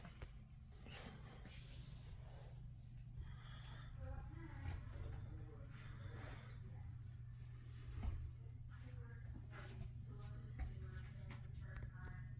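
Carolina ground cricket singing a steady, high-pitched, unbroken trill.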